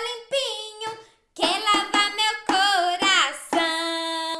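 High-pitched singing-style vocalizing in short phrases of wavering, sliding notes, ending with one long held note for about the last second.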